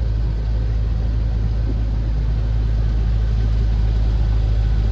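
2006 Pontiac GTO's 6.0-litre LS2 V8, fitted with a cat-back exhaust, idling steadily with a deep, even hum and no revving.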